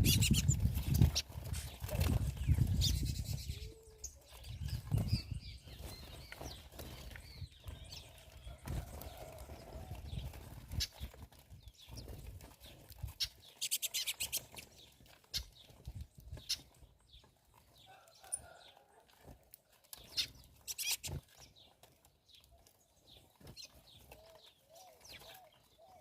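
Birds at a feeding spot, with wings fluttering, scattered short clicks and occasional brief calls. A low rumble fills the first few seconds.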